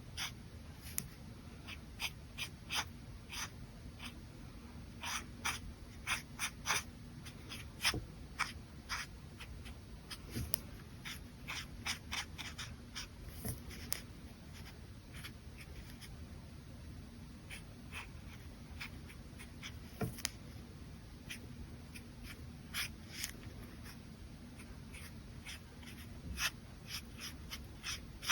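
Brush pen drawing on paper: short, irregular strokes and scratches that come in quick clusters with pauses between, over a faint steady hum.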